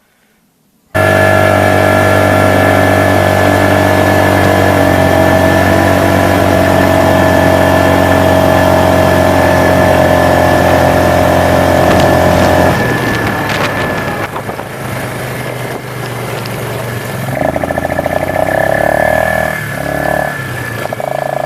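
A motor vehicle's engine running close by at a steady speed, starting abruptly about a second in. Its note changes and turns rougher about two-thirds of the way through, with a few short surges near the end.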